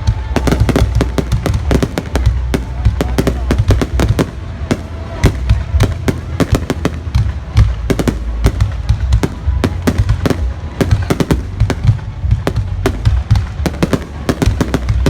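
Fireworks going off in a dense, continuous barrage of sharp bangs and crackles, several a second, over a low rumble.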